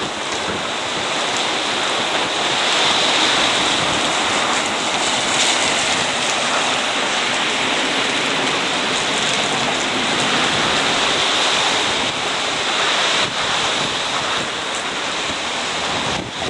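Typhoon wind and heavy rain, a steady loud rushing hiss that swells a little a few seconds in.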